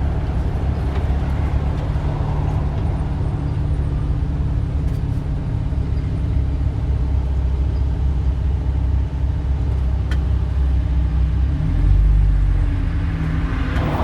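Street traffic: the steady low rumble of motor vehicle engines running, swelling briefly about twelve seconds in.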